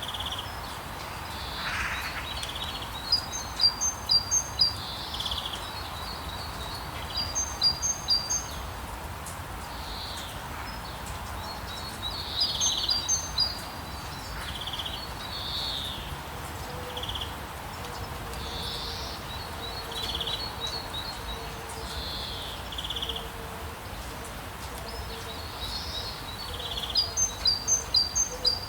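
Songbirds calling over a steady hiss of light rain, with several loud runs of quick, high repeated chirps.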